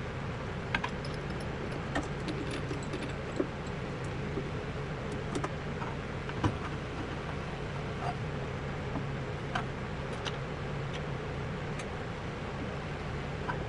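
Light metallic clicks and clinks, spaced irregularly about a second apart, as a drill bit and drill press chuck are handled. Under them runs a steady low shop hum.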